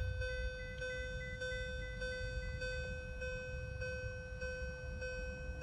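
Car dashboard warning chime in a Chevrolet Cavalier, sounding as an even, repeating ding about every half-second over a faint low rumble.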